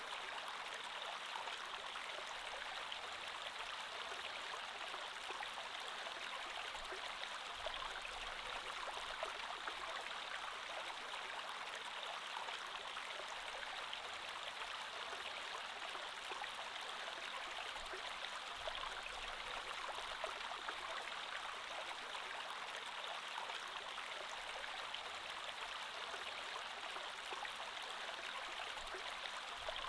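Creek water flowing steadily, an even rushing and babbling without breaks.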